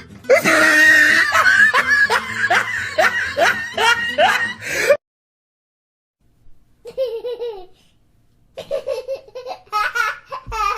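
Hearty laughing sound effect, a loud run of quick repeated laughs that cuts off abruptly after about five seconds. After a short silence, a quieter clip of short voice bursts starts.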